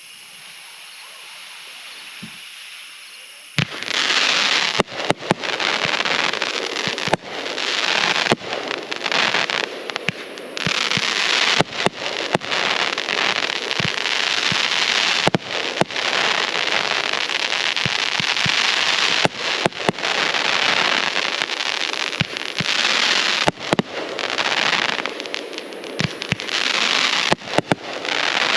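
Insects trilling faintly for the first few seconds. Then, about three and a half seconds in, a barrage of fireworks sets off: many sharp bangs over a continuous crackling hiss that rises and dips in bursts.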